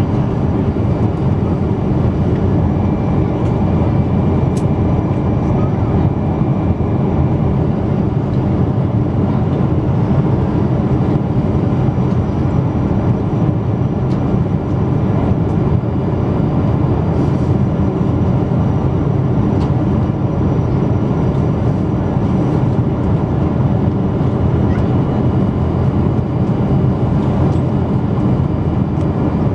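Steady cabin noise inside a Boeing 777-200 airliner: a constant drone of engines and airflow, strongest in the low range, with no change in pitch or level.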